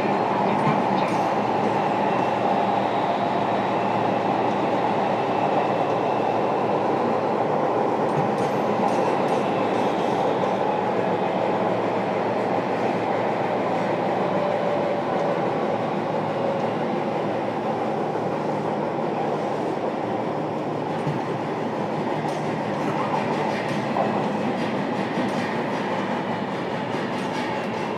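Interior running noise of a JR Kyushu 305 series electric train, heard in motor car MoHa 305-5: a steady rumble of wheels on rail with a faint steady hum, easing a little toward the end.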